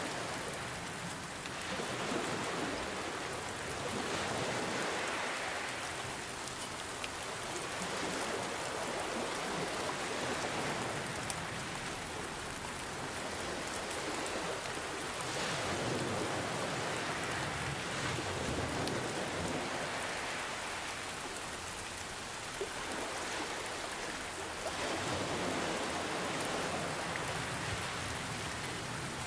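Steady rain mixed with gentle ocean waves washing in and out, the sound swelling and easing every five or six seconds.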